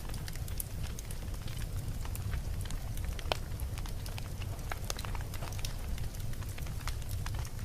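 Campfire burning, the wood crackling with many irregular sharp pops and snaps over a steady low rumble; one louder pop about three seconds in.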